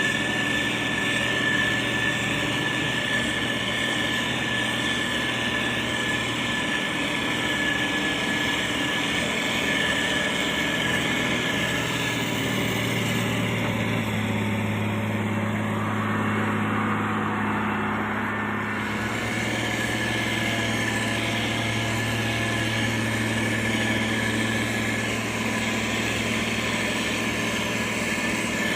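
Motor grader's diesel engine running steadily, its note shifting about halfway through and settling again a few seconds later.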